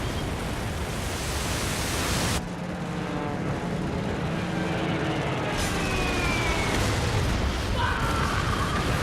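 Film battle soundtrack: a dense roar of explosions and gunfire noise that cuts off suddenly a couple of seconds in. A quieter stretch of held musical tones follows, then the roar of noise returns with tones over it.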